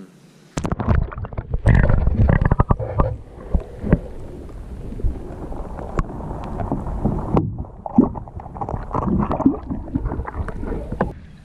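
Wind buffeting the microphone and water sloshing around a kayak, with repeated knocks and clatter against the hull.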